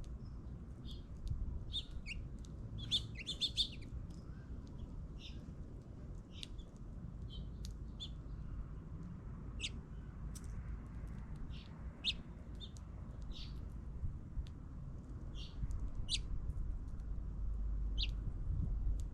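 Small birds chirping: many short, high calls scattered irregularly throughout, a few in quick clusters, over a steady low rumble.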